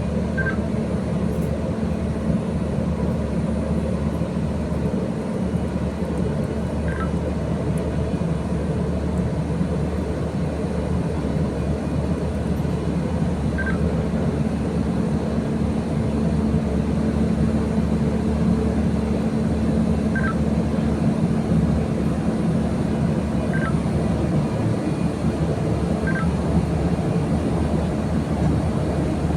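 Steady rumble and low drone of a train, with a short high beep sounding every few seconds, seven times in all.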